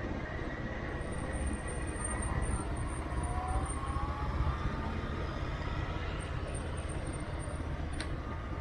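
Steady rumble of a road vehicle in motion, with a faint whine that glides slightly in pitch. There is a single click near the end.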